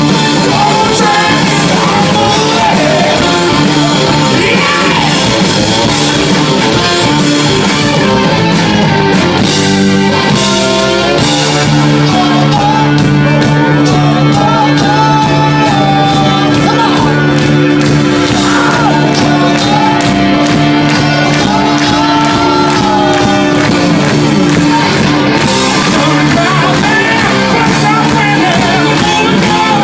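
Live hard rock band playing loud, with distorted electric guitar, drums and a singer. About eleven seconds in, the band moves into long held notes under the vocal line.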